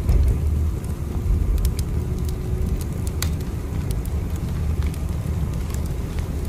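Steady low rumble of a moving train, with scattered light crackles and clicks over it.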